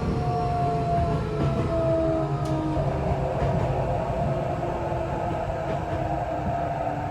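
Inside a Tokyo Metro 8000 series car: the Mitsubishi IGBT-VVVF traction equipment gives several steady tones that sag slightly in pitch, over a steady low rumble from the running gear.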